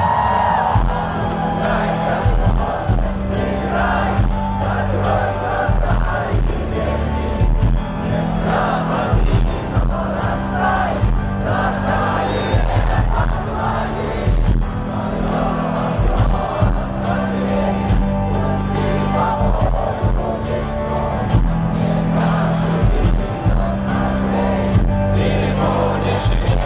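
A rock band playing live in a large arena, with a steady bass line, singing and the crowd's voices over the music.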